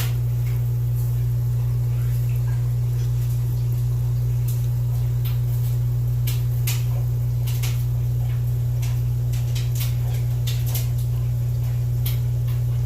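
Steady low hum of an aquarium pump running, with scattered faint clicks and ticks over it.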